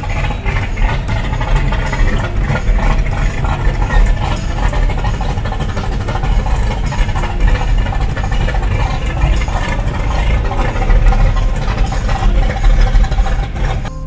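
Car engines running at low speed in slow traffic: a steady deep rumble that swells in loudness a few times.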